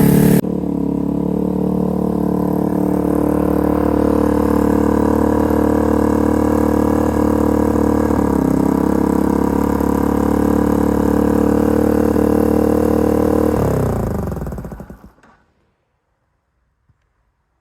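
Yamaha TW200's single-cylinder four-stroke engine idling steadily, then switched off about 14 seconds in, its note dropping as it winds down to a stop.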